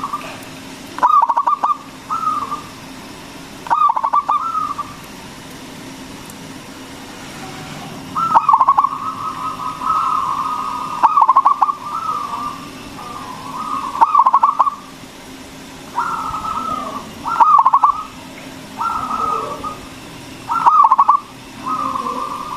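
Zebra dove (perkutut) singing its loud cooing song: phrases of rapid stuttering coos alternating with longer held notes, repeated every one to three seconds with a short pause about five seconds in. It is a local perkutut with a big voice, the kind played to provoke other perkutut into calling.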